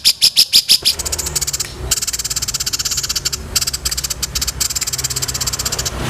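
A songbird calling in a high, fast, dry rattling trill. It opens with a short run of separate repeated notes and then goes on as a rapid buzzy chatter with brief breaks, over a low hum.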